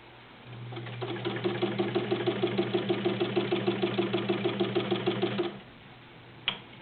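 Necchi BU sewing machine's 1.1-amp motor starting up and sewing at an even pace, about six or seven stitches a second over a steady motor hum, running smoothly. It stops abruptly about five and a half seconds in.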